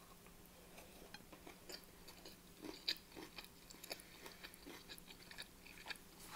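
Faint, close-up chewing of a mouthful of rice mixed with beef mince, cucumber and raw onion: a string of soft, irregular mouth clicks and smacks.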